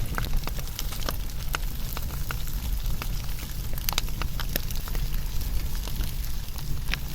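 Wood fire burning, with irregular sharp crackles and pops, a few of them louder, over a steady low rumble of the flames.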